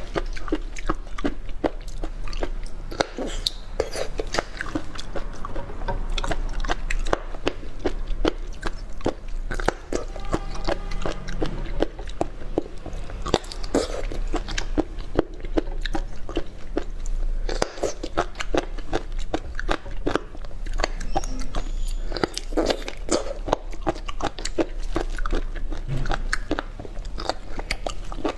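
Close-miked eating sounds: crunching bites and wet chewing, many small clicks coming thick and irregular.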